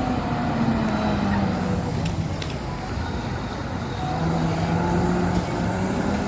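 Road traffic with heavy vehicles passing. A low engine tone slowly drops in pitch over the first few seconds, and another engine tone holds steady later.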